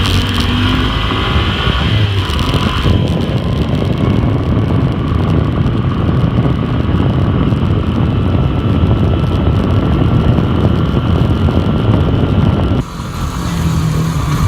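Four-wheeler (ATV) engine running steadily while riding; near the end the sound drops suddenly and then builds back up.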